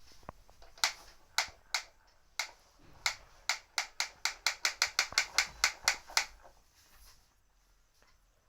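Ratchet-like clicking of a small plastic mechanism: a few separate clicks, then a quick even run of about four or five clicks a second that stops after about three seconds.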